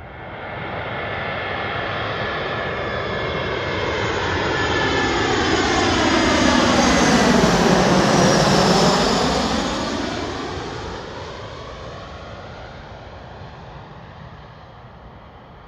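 Airbus A320-family jet airliner passing low overhead on landing approach: the turbofan engines' whine and rush grow louder to a peak about halfway through, then drop in pitch and fade as it moves away.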